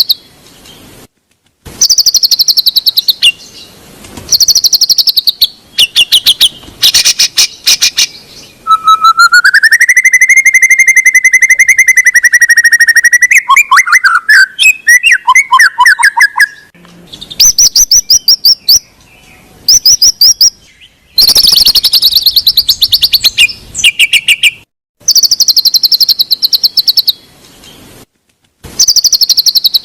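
White-rumped shama (murai batu) song from a training recording. Loud bursts of rapid, high trills are separated by short silent gaps, and a long whistled note from about nine seconds in rises, holds at a lower pitch, then breaks into quick chattering notes.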